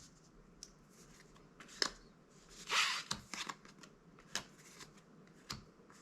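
Magic: The Gathering trading cards being handled and slid past one another. There are scattered short card snaps and one louder papery swish about three seconds in.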